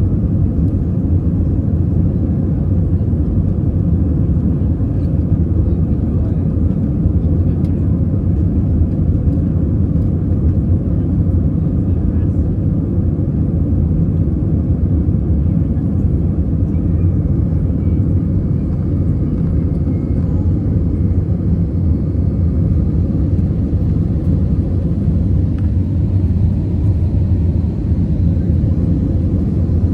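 Airbus A320 cabin noise heard from inside the cabin as the jet climbs out after takeoff: a steady, loud low rumble of engines and airflow that holds even throughout.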